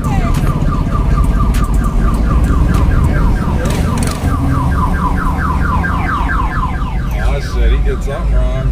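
Car alarm sounding a fast run of short rising chirps over a heavy low rumble, the chirping stopping about seven seconds in.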